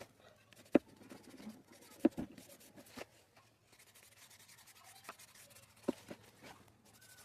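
Sketch eraser rubbing on paper in quick, light strokes, with a handful of sharp clicks and taps from handling it.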